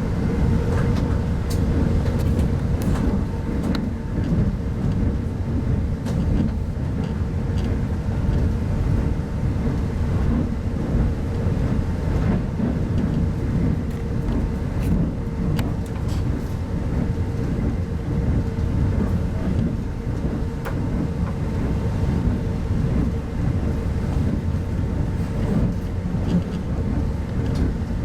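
Steady low rumble of a 25T passenger coach running along the track, heard from inside the coach, with a faint steady hum and a few light clicks.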